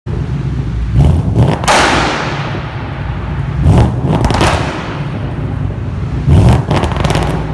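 Ford Mustang GT's 5.0 V8 running through a loud aftermarket exhaust. It is blipped three times, each blip a sudden loud burst over a steady low rumble, and the last carries a quick string of sharp bangs typical of an MSD two-step launch limiter.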